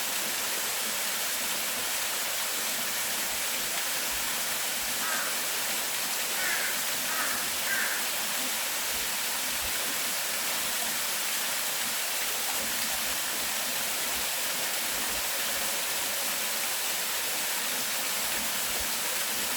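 Steady rushing water from a waterfall or fast stream. Midway through, a bird calls four short times over the water.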